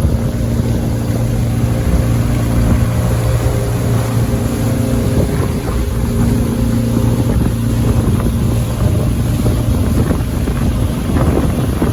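Motorboat engine running steadily, a low even hum under the rush of wind and water, with wind buffeting the microphone.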